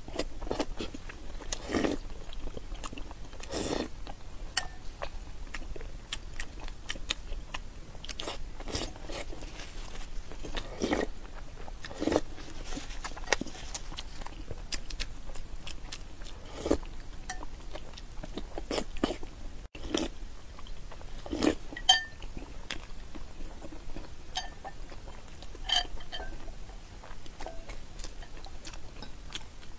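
Close-up eating sounds of boiled eggs braised in soy sauce: repeated biting and chewing. A spoon clinks against a ceramic bowl a few times with a short ring, about twenty seconds in, the loudest just before 22 s.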